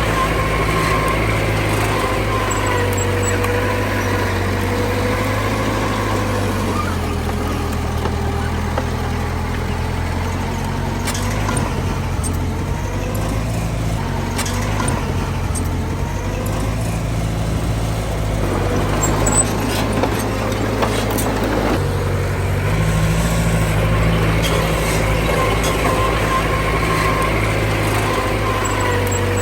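Heavy diesel machinery running steadily, the engine note shifting down and up a few times as its speed changes. Scattered light knocks come in the middle.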